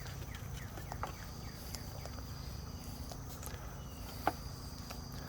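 Crickets chirping in a steady high trill, with scattered small clicks and one sharper tap a little over four seconds in, from puppies eating out of a shared bowl.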